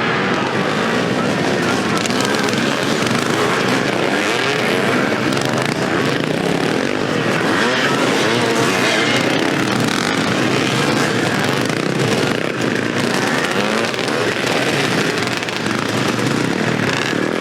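Several vintage motocross motorcycles racing, their engines revving up and down continuously and overlapping.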